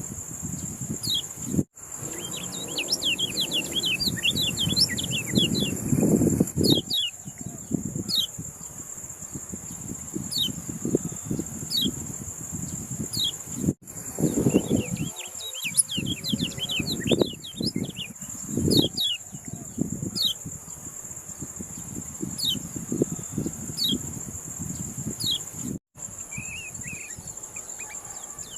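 Kecial kuning songbird calling in quick, short falling chirps, about one a second with denser flurries, over a steady high cricket-like whine and low rumbling thumps. The recording cuts out very briefly three times, a sign that a segment of about 12 seconds is being looped.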